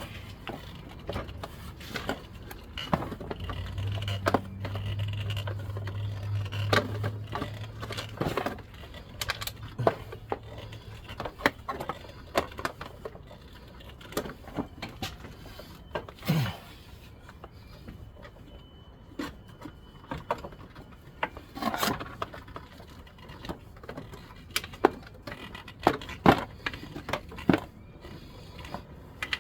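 Scattered clicks, knocks and scrapes of hand tools and metal fittings being handled during hands-on work on an engine bay's fuel and vacuum lines. A low hum runs under them for about the first ten seconds.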